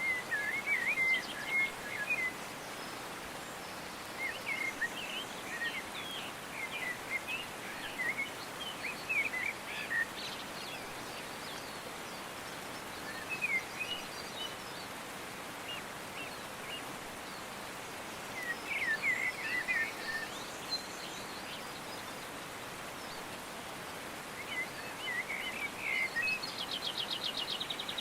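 Birds chirping in short scattered bursts over a steady background hiss, with a fast rapid trill near the end.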